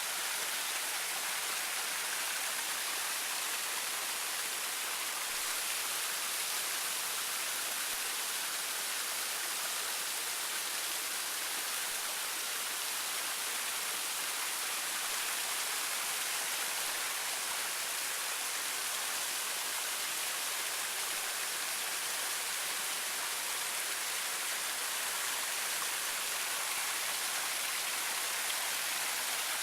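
Waterfall rushing over rocks: a steady, unbroken hiss of falling water.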